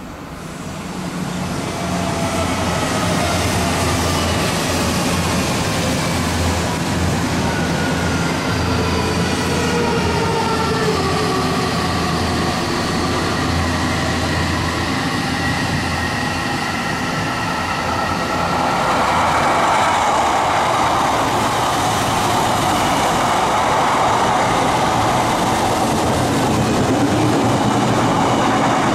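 Odakyu electric trains passing through a station. A commuter train's motors give several whining tones that fall in pitch. About two-thirds of the way in, an Odakyu MSE Romancecar comes close and a louder, steady rush of wheel and running noise takes over.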